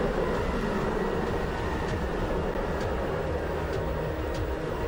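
Steady roar of the Ekranoplan's jet engines in documentary footage, an even rushing noise heavy in the low end.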